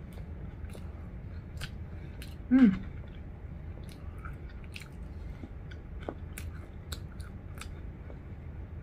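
Close-up chewing and mouth clicks of someone eating curly fries that were left too long in the air fryer, with scattered small crunches. About two and a half seconds in, a brief hummed vocal sound falls in pitch.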